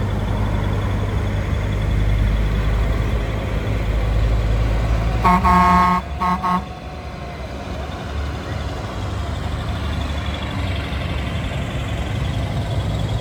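Heavy trucks' engines running with a steady low rumble. A truck horn sounds about five seconds in for under a second, then gives a second short toot.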